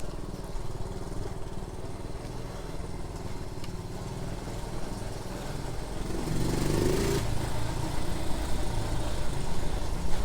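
Honda Z50J1 monkey bike's small single-cylinder four-stroke engine running under way, picking up revs and getting louder about six seconds in.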